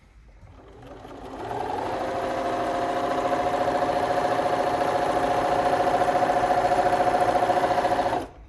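Bernina B325 sewing machine running a straight stitch through folded layers of thick, stiff denim. It speeds up over the first couple of seconds, stitches steadily at speed with a rapid even pulse, then stops suddenly near the end.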